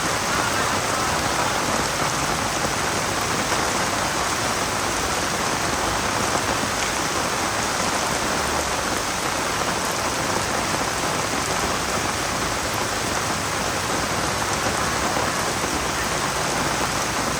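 Steady rain falling on surfaces, an even, unbroken hiss of many drops.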